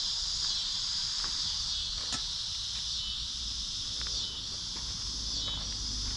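Steady high-pitched insect chorus chirring throughout, with a few faint light taps.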